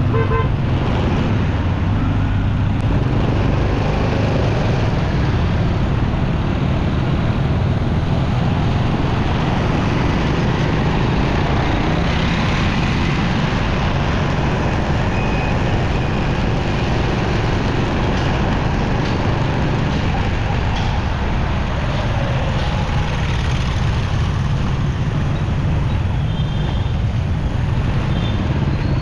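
Steady road and traffic noise from a moving motorcycle in busy city traffic: the bike's engine and surrounding trucks, cars and motorbikes, with no break or sudden event.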